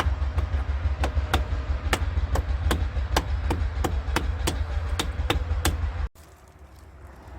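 Evenly spaced sharp knocks, about three a second, over a steady low hum; both cut off abruptly about six seconds in.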